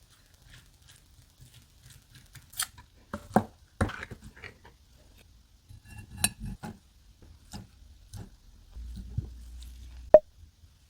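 Kitchen utensils tapping and knocking against dishes in scattered strokes while food is prepared, with one sharper ringing clink near the end.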